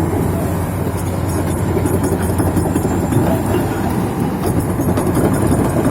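Hitachi EX470LC Zaxis excavator's six-cylinder diesel engine running steadily, with a dense clatter over the low engine hum.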